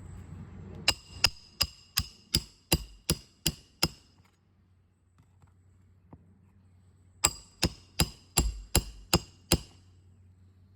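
Roofing hammer driving nails into an asphalt shingle: two runs of sharp, ringing metal-on-metal blows at about three a second, about nine in the first run and eight in the second, with a pause of about three seconds between them.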